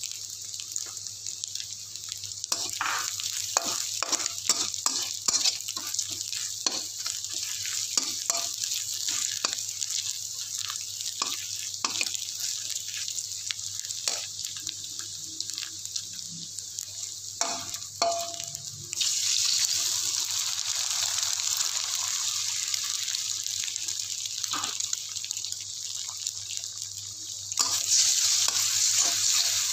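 Pounded garlic, shallot, chilli and anchovy paste sizzling in oil in a steel wok, with a metal spatula scraping and tapping against the pan. About two-thirds of the way in the sizzle turns much louder as egg goes into the hot oil.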